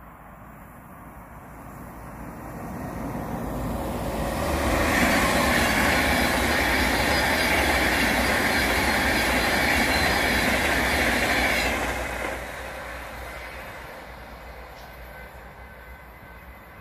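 Avanti West Coast express passenger train passing at speed: its rolling noise builds over a few seconds, holds loud with a steady high whine while the carriages go by, then fades as it draws away.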